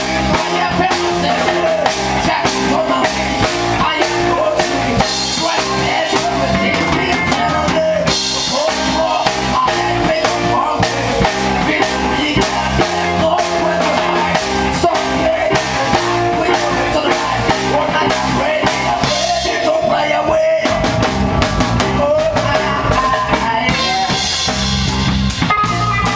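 A band playing live: drum kit, bass and guitar in a steady groove. The music drops out for a split second about 20 seconds in, then carries on.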